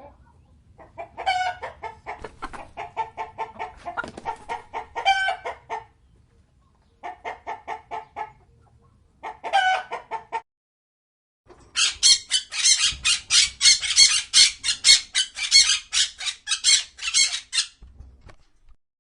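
An animal, most likely a bird, calling in rapid runs of short clucking notes, in several bouts. The last bout is the loudest and highest, with about four notes a second, starting about twelve seconds in.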